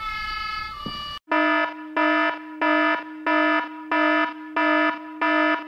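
Music for about a second, then a fire-alarm buzzer: a flat, buzzy tone pulsing on and off about one and a half times a second.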